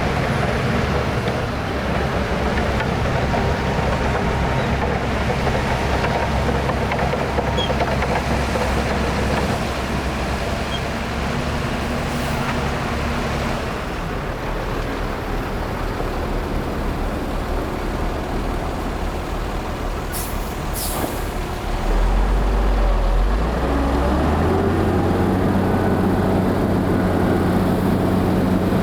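Heavy diesel earthmoving machinery running steadily under load: a bulldozer and dump trucks working sand. The engine note shifts about halfway through. A short hiss, like an air brake releasing, comes about 20 seconds in, and an engine comes up louder and deeper about 22 seconds in.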